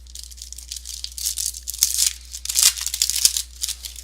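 A trading-card pack wrapper being torn open and crinkled by hand, a run of rustling, crackling bursts that are loudest in the middle, with a few sharp snaps.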